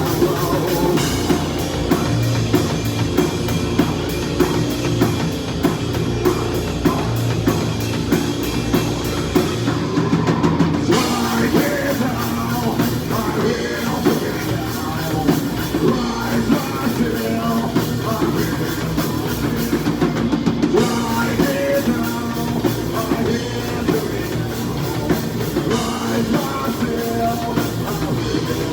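Metalcore band playing live: heavy distorted guitars over a drum kit.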